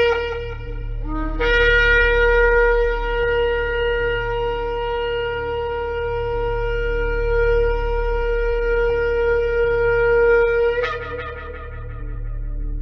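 Shofar blowing one long held blast of about nine seconds. It opens with a short lower note that slides up into the main pitch and breaks upward with a short crack near the end. The tail of the previous blast is heard at the very start, and a steady low drone runs underneath.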